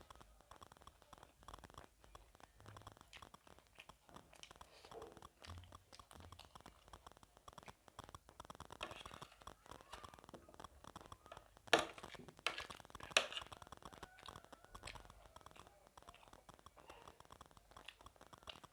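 Faint eating sounds: chewing a mouthful of gilo chatpate, a spiced puffed-rice snack, with soft crunching and scratching, and two sharp clicks a little past the middle, about a second and a half apart.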